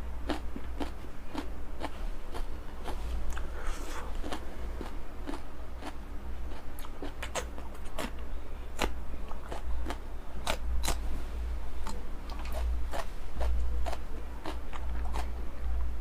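Close-up biting and chewing of raw chillies: irregular wet crunches and clicks of the mouth, over a steady low hum.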